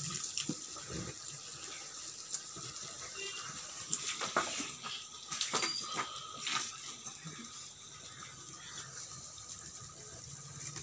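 Chicken pieces sizzling steadily in a kadai over a wood fire, with a few sharp clicks and knocks in the first half.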